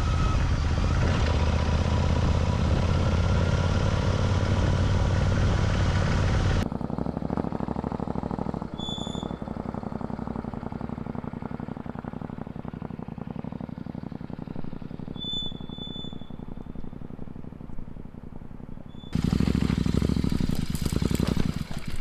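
Royal Enfield Interceptor 650 parallel-twin motorcycle engine running steadily while riding, mixed with wind noise. It cuts off abruptly to quieter outdoor ambience with a few short chirps, and a loud low rumble comes back near the end.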